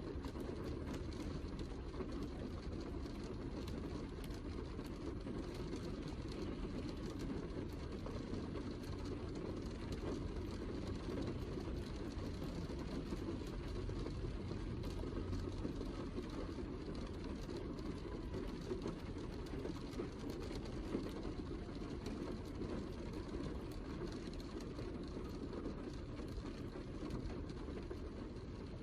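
Steady heavy rain, a dense, even rush with its weight in the low end and faint drop ticks above it.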